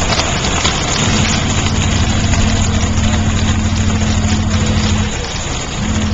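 Steady road and engine noise heard inside a moving truck's cab, with a low steady hum that comes in about a second in, cuts out about five seconds in and returns near the end.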